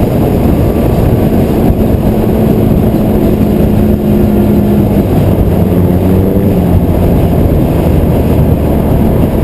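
Car engine running steadily at highway speed, a drone held at a near-constant pitch over a dense low rumble of road and wind noise.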